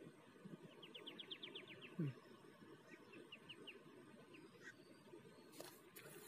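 Faint bird calls: a quick run of about a dozen short falling chirps, then a shorter run of four or five, over a quiet open-air background. A brief low thump about two seconds in is the loudest sound, and a short rustle comes near the end.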